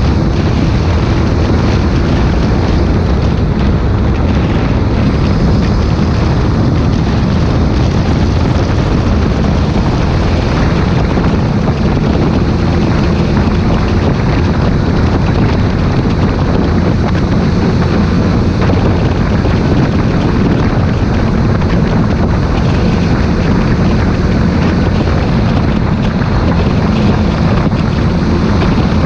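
Claas Xerion 3800 tractor's diesel engine running steadily at an even speed, with some wind noise on the microphone.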